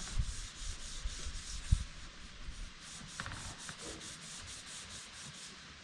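Sandpaper being rubbed by hand over a vehicle's body panel in quick back-and-forth strokes, about four a second, during final sanding before paint. A sharp knock sounds once, just under two seconds in.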